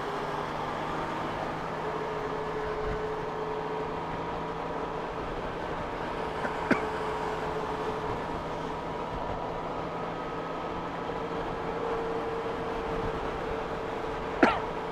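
Honda Gold Wing motorcycle cruising on a wet road: a steady engine hum under wind and road noise. There is a sharp click about six and a half seconds in and a brief louder sound near the end.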